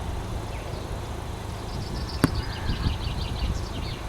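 Outdoor trackside background between trains: a steady low rumble with faint, quick chirps of small birds, and one sharp click about two seconds in.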